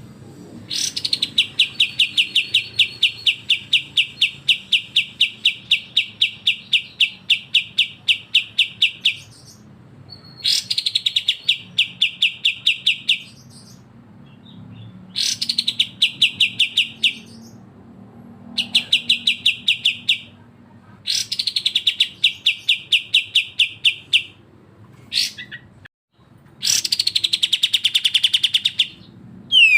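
Bulbul singing in 'besetan' style: bouts of rapid, evenly repeated sharp notes, several a second. A long bout of about eight seconds comes first, then shorter bouts of a few seconds each with brief pauses between.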